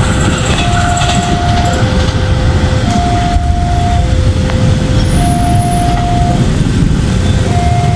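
A passenger train runs through a level crossing with a continuous heavy rumble of wheels on rail. Over it the crossing's warning alarm keeps alternating between a higher and a lower tone, about a second each, signalling that the barrier is down.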